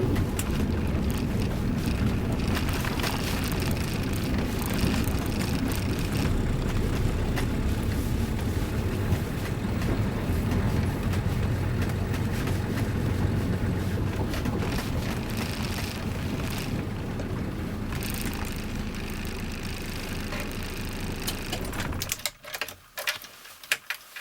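Toyota Land Cruiser HJ60's 2H inline-six diesel engine running steadily, then switched off about 22 seconds in, with a few clicks and knocks after it stops.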